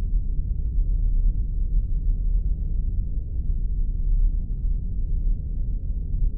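Spaceship sound effect: a steady, deep rumble with nothing high in it, unchanging throughout.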